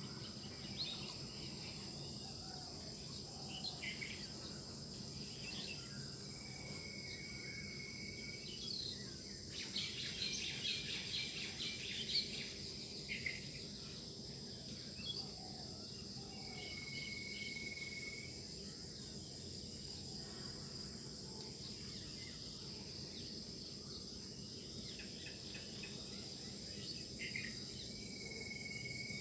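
Birds singing over a steady high insect trill. Scattered chirps include a flurry about ten seconds in, and a held whistled note comes three times, about ten seconds apart.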